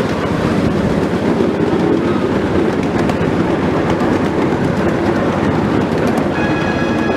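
Passenger train rolling along, a steady, dense rumble of wheels on track. Near the end the train starts sounding a high-pitched signal.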